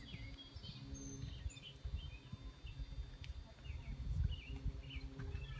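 Songbirds chirping in short, scattered calls over a low, uneven rumble.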